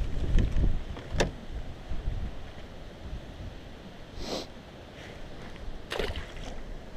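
Wind buffeting the microphone and water lapping against a small fishing boat, with a sharp click about a second in and two brief splashy hisses later on.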